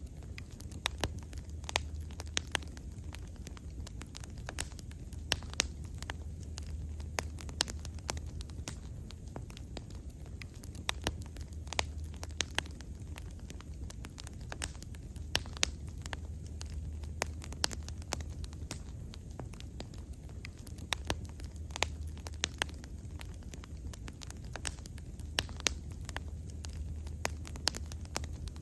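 Wood fire burning: irregular sharp crackles and pops, several a second, over a steady low rumble.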